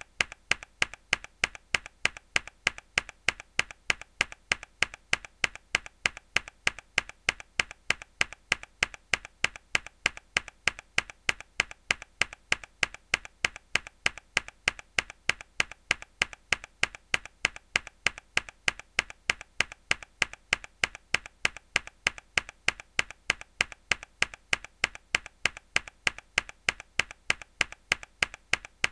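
A single mechanical keyboard key pressed hard again and again, sharp clacks in a steady rhythm of about three a second, with a fainter click between strokes.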